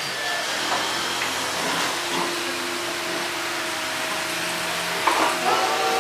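Steady hissing noise, with music coming in near the end.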